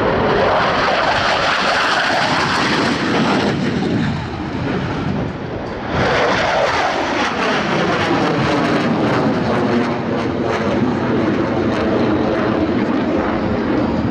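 Jet noise from Blue Angels F/A-18 Super Hornets in a maximum-performance climb. It eases for about two seconds around four seconds in, then swells again with a sweeping, phasing whoosh as the jets pass.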